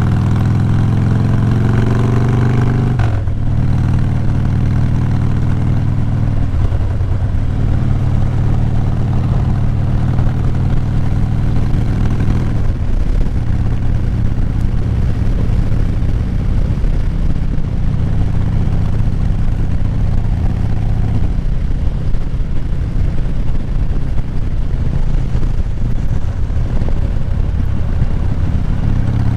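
Motorcycle engine running while riding. Its note climbs over the first three seconds, drops sharply about three seconds in, then holds fairly steady, changing pitch again about twelve and twenty-one seconds in.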